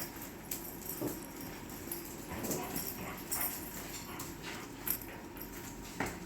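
Airedoodle puppies whimpering now and then, with many short clicks and rustles around them.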